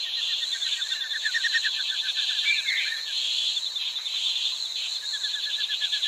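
Insects chirping in a steady high buzz with a fast pulsing trill, joined by a few short bird calls.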